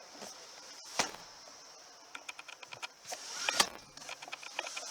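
Rear seatbacks of a car being released and folded down into the trunk: small latch clicks, a sharp knock about a second in and a louder thud about three and a half seconds in.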